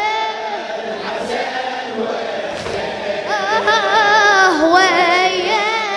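Voices singing a Shia latmiya lament in chorus, long held notes with a wavering, ornamented line; a new phrase begins about halfway through.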